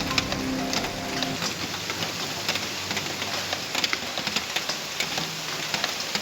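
Steady rain hiss with many scattered sharp drop impacts. Background music is heard briefly and stops about a second in.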